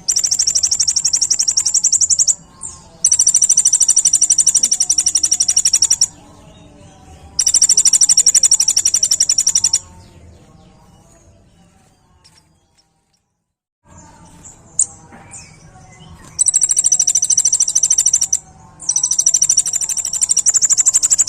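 Kolibri ninja sunbird singing a very rapid, high-pitched trilling phrase, the 'tembakan' burst prized by bird keepers. It comes in five bursts of two to three seconds each, with short pauses and one longer silent break in the middle.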